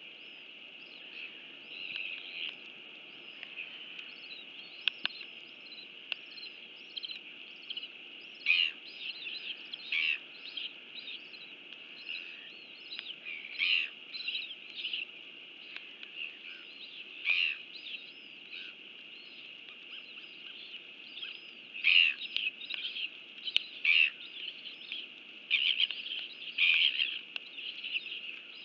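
Small songbirds chirping and twittering in irregular bursts over a steady background hiss, the calls loudest and densest late on.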